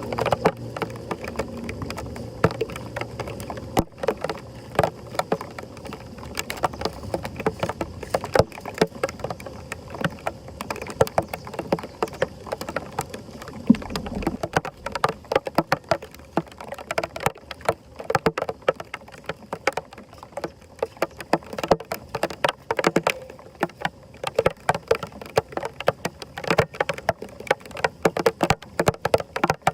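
Water splashing and sloshing in heavy rain, with a dense run of irregular sharp knocks and clatter throughout.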